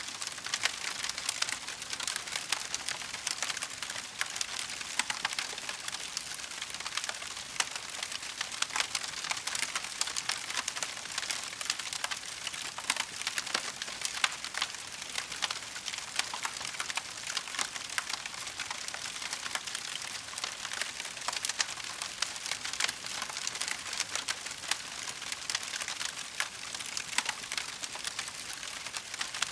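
Wood fire crackling steadily: a dense patter of small pops and snaps over a soft hiss, with a few sharper cracks scattered through.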